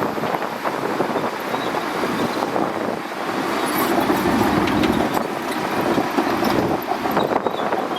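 Shantui DH17C2 bulldozer working, its diesel engine running under load with a steady clatter of the tracks. The engine grows louder for a couple of seconds midway.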